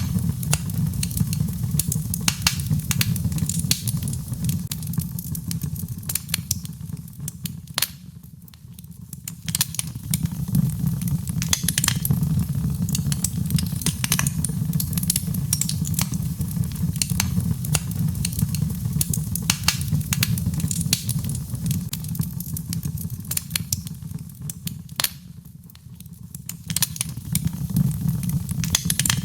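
Birchwood fire burning in a fireplace: dense, irregular crackles and pops over a steady low rumble. The crackling thins out and quietens briefly twice, about a third of the way in and again near the end.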